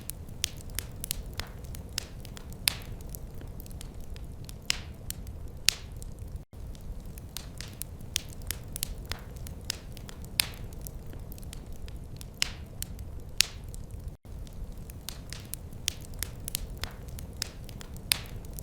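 Wood fire crackling in a fireplace: irregular sharp pops and snaps over a low steady rumble. The sound cuts out for an instant twice, about a third and three quarters of the way through.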